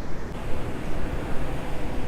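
Wind buffeting the microphone: a steady low rumble with rough, gusting swells of loudness.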